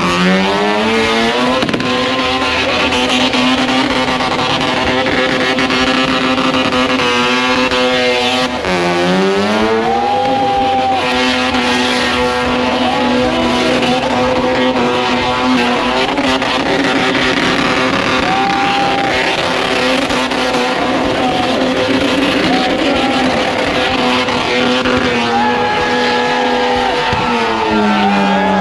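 A race engine held at high revs during a burnout, with the tyres spinning and squealing. The pitch stays steady and high, dipping and climbing back up near the start, about a third of the way in, and again near the end as the throttle is briefly eased.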